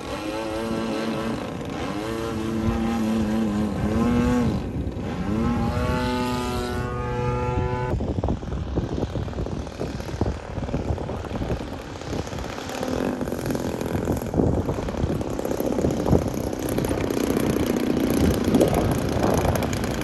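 Large RC model airplane's engine running, its pitch rising and falling over the first eight seconds. After that the engine note fades into a rougher, noisier rush.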